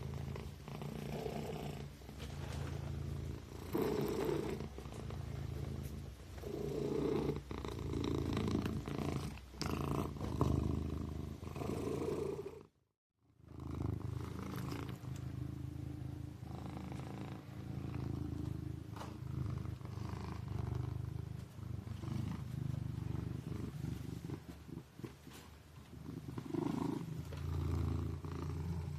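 Kitten purring steadily, a low continuous rumble that swells and fades every two to three seconds. The purring cuts out to silence for a moment about halfway through, then resumes.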